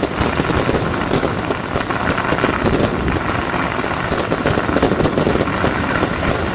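Firecrackers going off in a dense, unbroken crackle of rapid small bangs.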